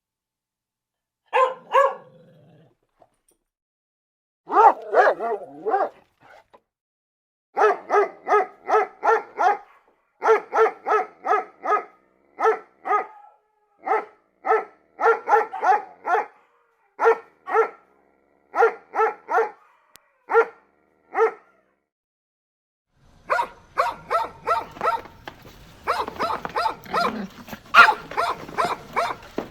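A dog barking repeatedly in quick runs of several barks, about three a second, with short pauses between the runs. Toward the end a steady background noise comes in under faster, denser barking.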